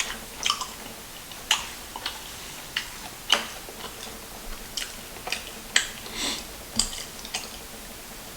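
Close-up wet chewing and lip smacks of someone eating sauce-covered chicken: irregular sharp smacks and mouth clicks, roughly two a second.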